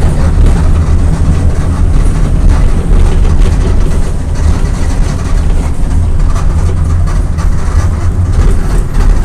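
VolksBus 17.230 EOD bus's diesel engine running steadily, a loud low rumble with road and body noise.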